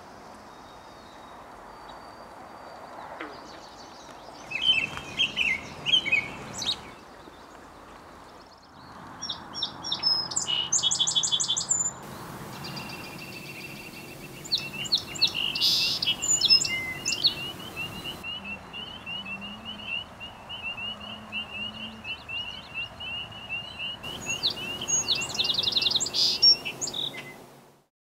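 Several songbirds singing: bursts of chirps and whistled phrases, then a long, rapid, even trill running under the other songs through the second half. The background changes abruptly a few times where separate recordings are joined, and it all fades out at the very end.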